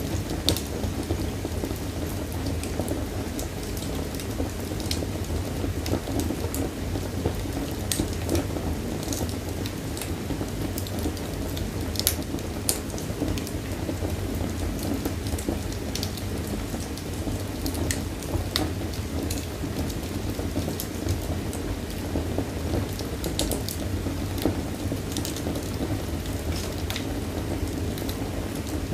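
Wood fire crackling in a fireplace: a steady low rumble of burning, with irregular sharp pops and snaps scattered throughout.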